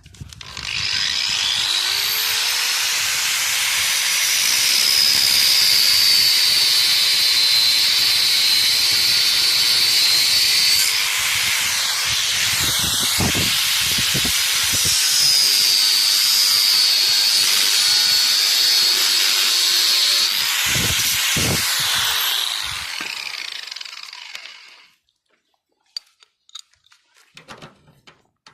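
Handheld electric power tool running continuously on metal for about 24 seconds: a loud, high, hissing whine that shifts in pitch as the load changes. It starts just after the beginning and winds down and stops a few seconds before the end.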